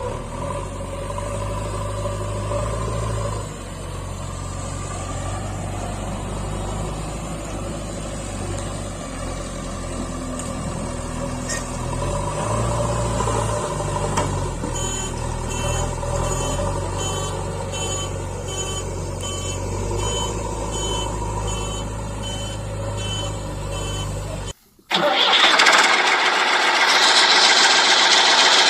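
Diesel engine of heavy construction machinery running, its speed picking up in the middle and then settling, with a repeated high beeping over it for several seconds. Near the end the sound cuts out and gives way to a loud rushing noise.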